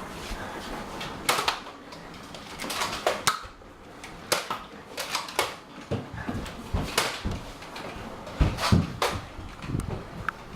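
Scattered clicks, knocks and thumps from Nerf blasters being handled and fired and foam darts striking things, with the loudest knocks about a second in and near the end.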